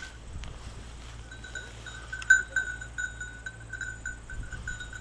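A hunting dog's collar bell ringing in quick, uneven jingles as the dog moves, starting about a second in. There is one sharp knock about two seconds in.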